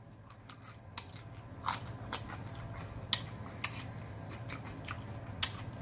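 Close-miked biting and chewing of a raw green chili pepper: scattered sharp, crisp crunches, about half a dozen, over a faint steady low hum.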